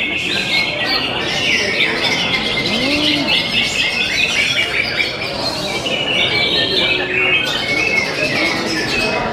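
Many caged greater green leafbirds (cucak hijau) singing at once in a contest round: an unbroken tangle of quick chirps and whistled phrases from several birds overlapping.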